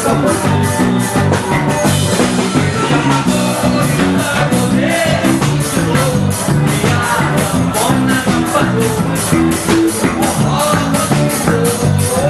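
Live forró band playing: a steady, quick beat, about four strokes a second, over a stepping bass line.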